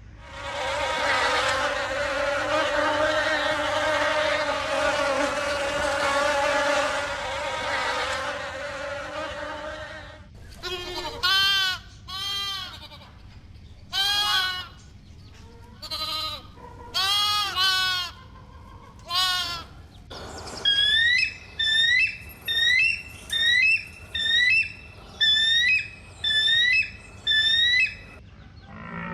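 A run of animal sounds: a steady droning buzz for about ten seconds, then a series of short arching chirps, then a quicker run of about ten repeated hooked calls.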